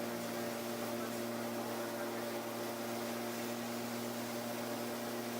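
Kallithea gyroplane's engine and propeller droning steadily in cruise flight: a constant hum with one steady tone over a hiss.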